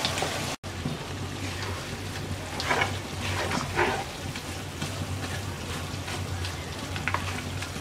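Beef pieces frying in mustard oil in a karahi over low heat, a steady soft sizzle, while a wooden spatula stirs and scrapes them, with louder scraping strokes about three to four seconds in. A steady low hum runs underneath.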